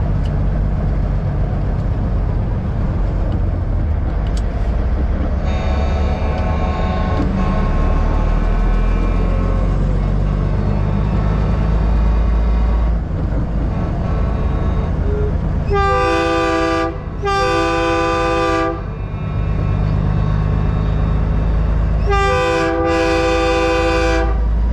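Big-rig air horns blowing over a steady low rumble of truck engines: a fainter horn held for several seconds, then two pairs of loud blasts with several tones sounding together, the pairs about six seconds apart.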